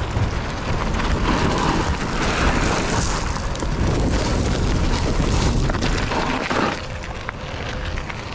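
Wind buffeting the microphone: a loud, steady, low rumbling noise with no clear pitch.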